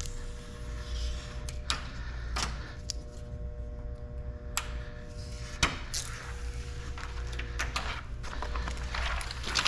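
Window tint film being handled and peeled on a glass cutting board: scattered short clicks and crinkles at irregular intervals over a steady low hum.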